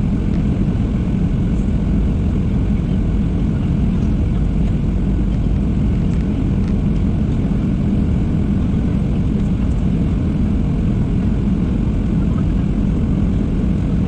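Steady, low rumble of a Boeing 737-700 in flight as heard inside the passenger cabin: engine noise and rushing air, with no change in pitch or level.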